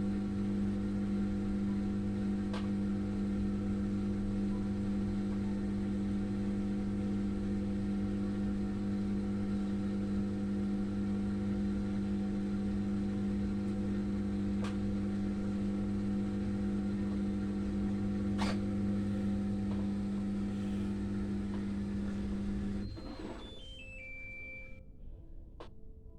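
Daewoo washing machine running with a steady hum, with a few faint clicks. About twenty-three seconds in the hum cuts off and a short falling series of electronic beeps plays.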